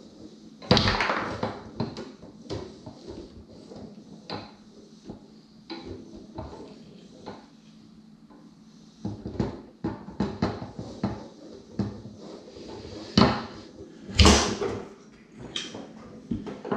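Foosball being played on a Tornado table: the hard ball clacks off the players and the table walls and the rods knock, in a rapid run of small clicks with a few sharp, loud hits, the loudest about a second in and two near the end.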